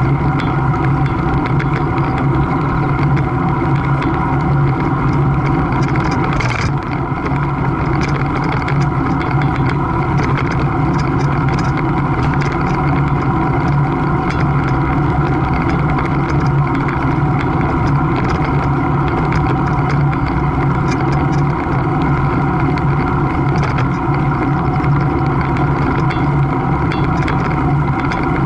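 A steady engine drone holding one pitch throughout, with no rise or fall.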